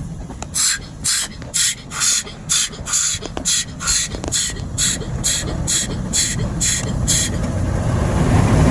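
Automatic car wash's high-pressure water spray hitting the car, heard from inside the cabin: about fifteen hissing pulses, roughly two a second, over a low rumble, stopping about seven seconds in.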